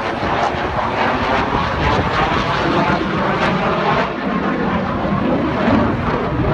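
Fixed-wing aircraft engine running loud and steady as an airplane flies by.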